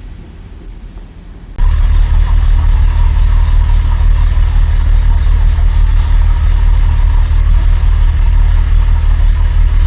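Diesel train engine running loudly and steadily close by, a deep, constant rumble that cuts in abruptly about a second and a half in, after a quieter hum.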